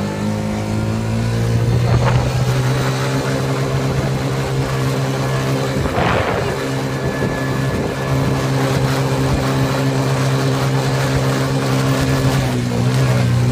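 Small off-road vehicle engine running at a steady speed while driving, with a knock about two seconds in and a rougher jolt about six seconds in. The engine note dips and picks up again near the end.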